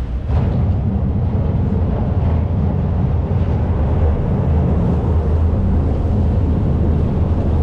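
Motorboat engine running with a steady low rumble.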